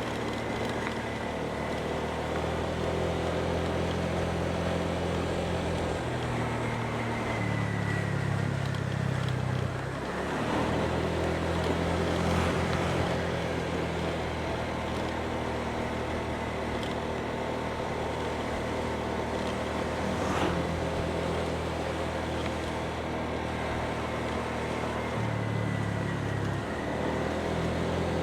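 Motorbike engine running while riding, with road and wind noise. Its pitch steps up and down a few times as the throttle changes.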